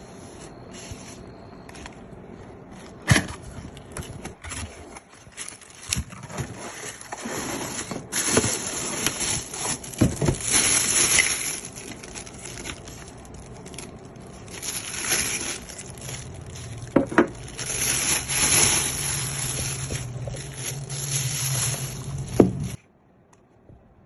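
A plastic hair dryer and its packaging being handled during unboxing: uneven rustling and scraping with about six sharp knocks. The sound cuts off abruptly near the end.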